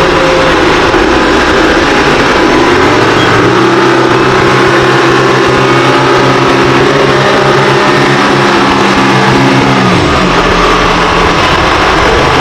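Four-wheel-drive tractor's engine running steadily while driving a rotavator. Its note settles about three seconds in and drops about ten seconds in.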